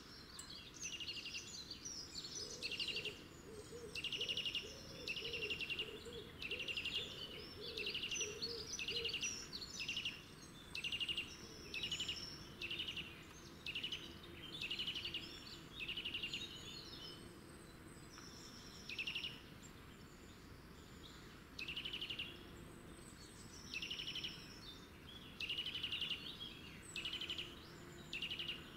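A small bird calling over and over, short buzzy chirps about once a second, pausing for a few seconds just past the middle before starting again.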